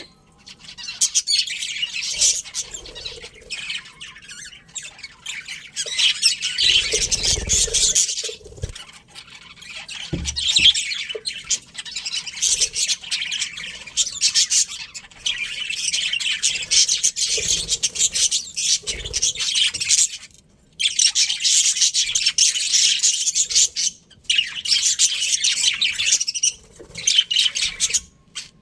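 Budgerigars chattering and chirping many at once, a dense, rapid warble in long stretches broken by a couple of short pauses. A few low thumps come in the first half.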